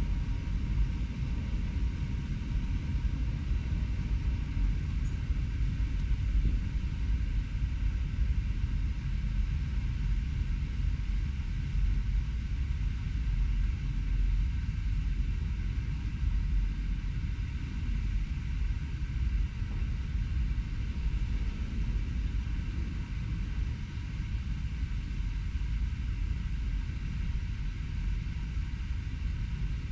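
Steady low rumble of distant city traffic, with no distinct events standing out.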